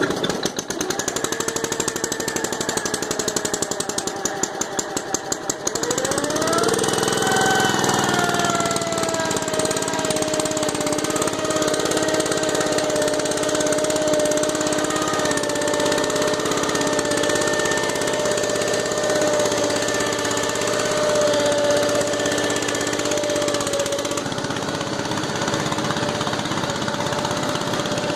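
1967 Case 155 garden tractor engine on a cold start, turning over unevenly for about six seconds before it catches. It then revs up and settles into a steady run.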